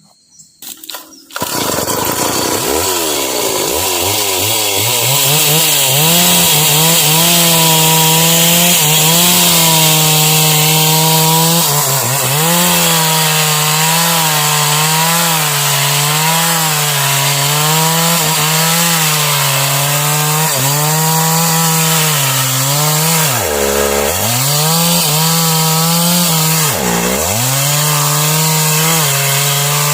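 Stihl MS 381 two-stroke chainsaw cutting into sengon wood, coming in loudly about a second and a half in and running at high revs under load, the pitch wavering as the chain bites. Near the end the revs drop sharply twice and pick up again.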